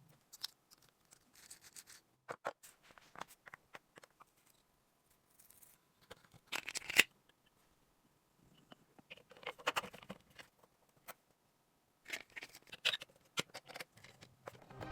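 Small handling sounds on a toy: scattered light clicks and taps, with short bursts of scraping about six and a half seconds, ten seconds and twelve to thirteen seconds in.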